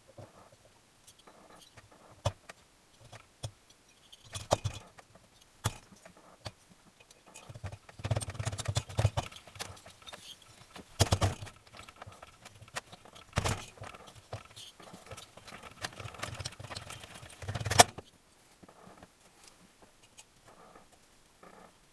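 Metal tools and small engine parts clinking, knocking and rattling as they are handled. A run of sharp clicks gives way to dense, busier handling noise from about eight seconds in until near the end.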